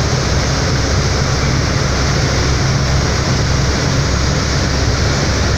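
The Express Bahari 8B fast ferry's engines running steadily: a constant low droning hum under an even rushing noise.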